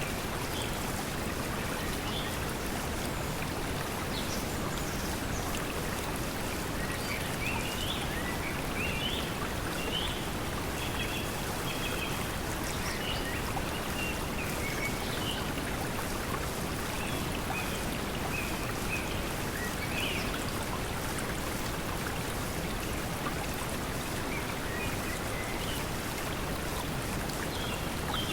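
Steady pink noise mixed with flowing water, with short, high bird chirps scattered throughout.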